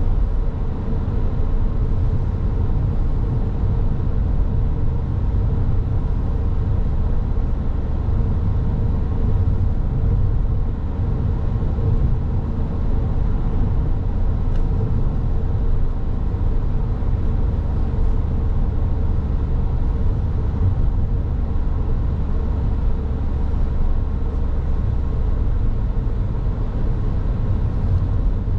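Car driving along a road: steady low rumble of tyres and engine, with an even road-noise hiss and no sudden changes.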